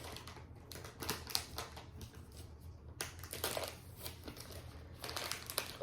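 Chocolate bar wrapper crinkling and rustling as it is pulled open, a run of irregular quiet crackles with a few sharper ones.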